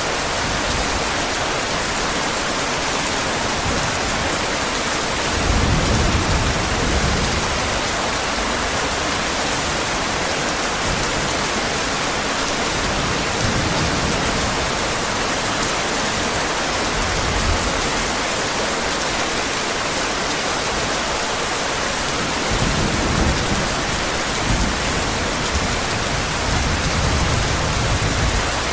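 Heavy rain falling in a steady hiss, with low rumbles of thunder swelling up several times: about six seconds in, briefly past the middle, and twice more near the end.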